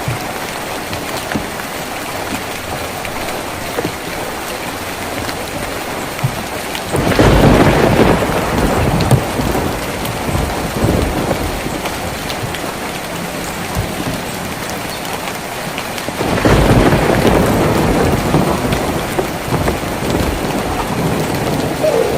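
Steady rain falling on a tin roof. Twice it swells much louder and deeper for a few seconds, about a third of the way in and again about three quarters of the way through.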